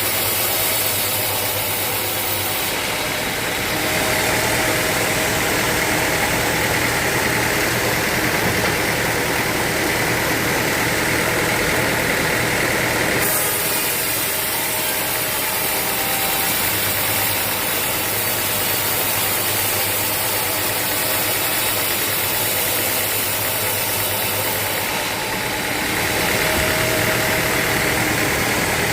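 Sawmill machinery running steadily while logs are sawn, a dense mechanical noise whose tone shifts abruptly a few times.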